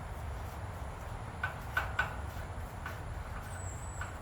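A few light clicks and taps, bunched about a second and a half in, over a steady low rumble.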